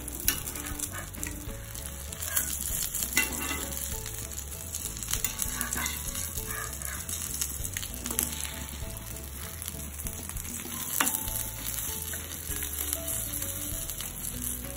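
Oil sizzling steadily under an egg-and-Maggi-noodle omelette frying on an iron tawa. A metal spatula and tongs click and scrape against the pan a few times as the omelette is turned.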